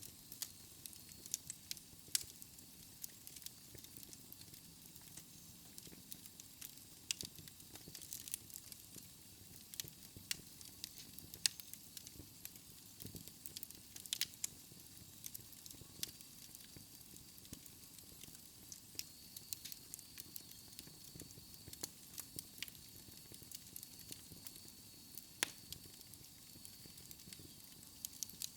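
Wood fire burning in a fireplace, crackling with frequent irregular sharp pops over a low, soft rush of flame.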